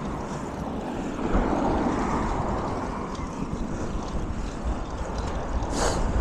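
Steady rushing noise of riding a bicycle outdoors: wind on the microphone and tyres on the path, with a low rumble throughout and a brief sharp hiss near the end.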